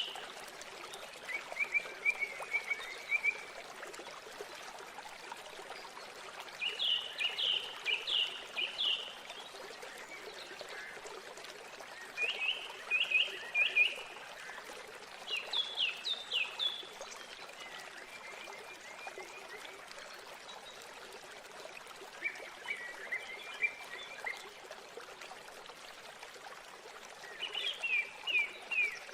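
Steady rush of a waterfall, with a bird calling over it again and again every few seconds, each call a short burst of quick, pulsed high notes.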